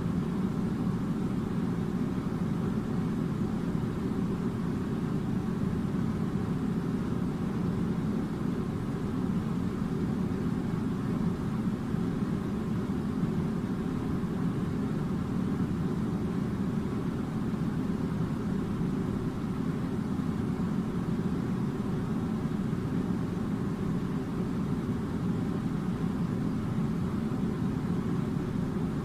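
A steady low rumbling noise that holds an even level throughout, with no clicks, voices or changes.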